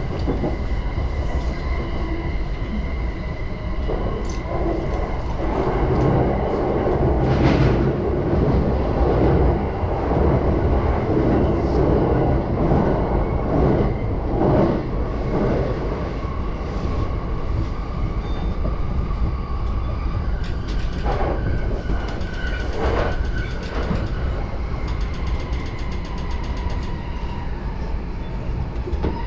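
JR Yamanote Line commuter train running, heard from inside the carriage: a steady rumble and rail noise with a faint motor whine, and a few sharp clacks of the wheels over rail joints.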